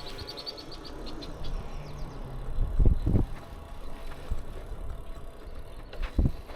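Sounds of a bicycle being ridden: rapid high ticking that thins out and fades over the first second, with loud low rumbling thumps about three seconds in and again near the end.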